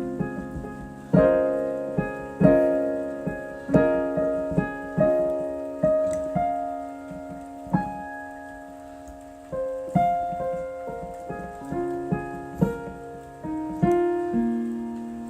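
Solo piano playing an improvised, unhurried passage: chords and single notes struck about once a second and left to ring and fade into one another.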